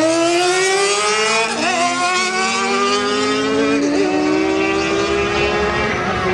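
Drag-racing motorcycle engine pulling hard down the strip, its pitch climbing steadily with two brief dips where it shifts gears, about one and a half and four seconds in.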